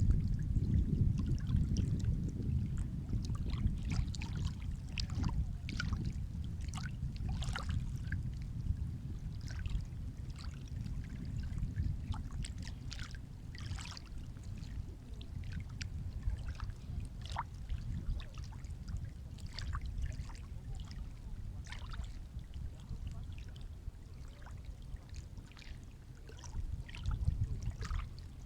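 Sea waves washing in a low, steady rush, with many small splashes and drips of water through it; the wash swells in the first few seconds and again near the end.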